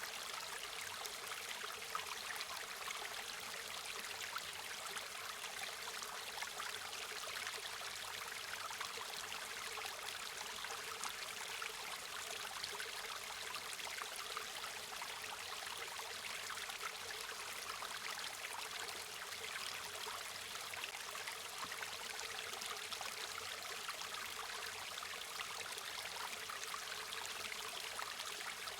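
River water flowing steadily over stones, a continuous rushing and trickling with no breaks.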